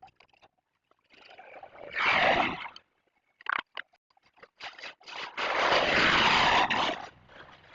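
Motorcycle being washed: two loud spells of rushing, hissing noise, one about two seconds in and a longer one of about a second and a half near the end, with scattered clicks and taps between them.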